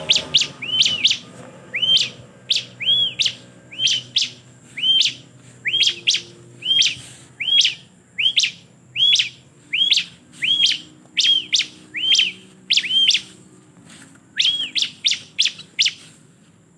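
A ciblek (bar-winged prinia) calling over and over, about one and a half calls a second: each call a sharp downward note ending in a short arched chirp. The calls stop near the end.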